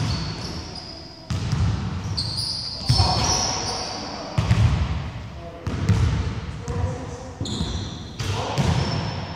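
Basketball bouncing on a wooden gym court during play, with thuds every second or so and short high squeaks, echoing in a large hall; players' voices mixed in.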